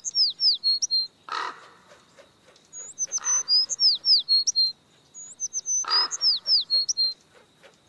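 Songbird singing: a phrase of quick high whistled notes and downward-swept notes, heard three times over in the same pattern. A short soft rush of noise comes under each phrase.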